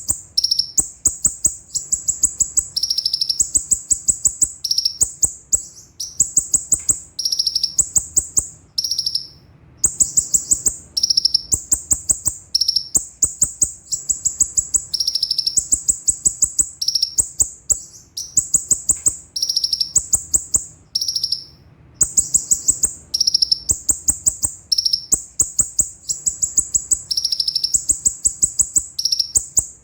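Konin sunbird ('kolibri ninja') singing: very high, rapid strings of thin trilled notes in phrases of about a second, repeated over and over with short breaks.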